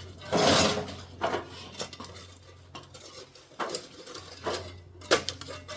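Irregular metallic scraping, clinking and knocking of work on rubble, loudest in a scrape about half a second in and a couple of sharp hits near the end, over a steady low hum.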